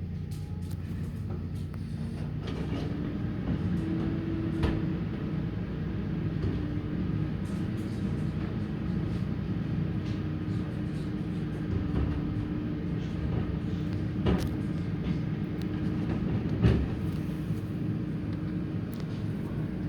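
Garbage truck's diesel engine running with a steady whine that sets in a few seconds in, as the engine works the bin-lifting gear. A few sharp knocks and bangs, the loudest near the end, as bins are handled.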